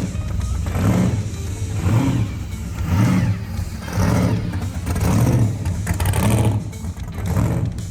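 Car engine running with a steady low rumble and being revved in short blips about once a second.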